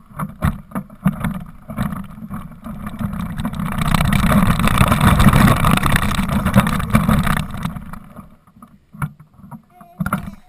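Grey Ferguson tractor's engine running hard as the tractor is driven close by, building up, loudest for a few seconds in the middle, then fading away.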